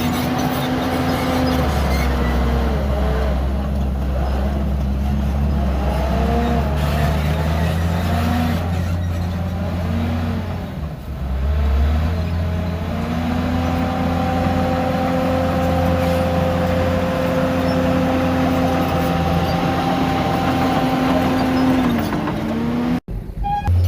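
Heavy earthmoving machinery's diesel engines running, their pitch rising and falling as they rev under load over a steady low hum. The sound cuts out for an instant near the end.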